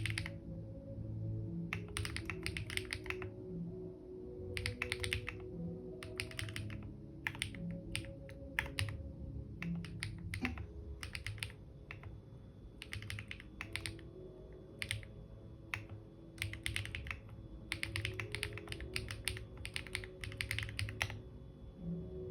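Typing on a computer keyboard in quick bursts of keystrokes, with short pauses between bursts, over soft background music.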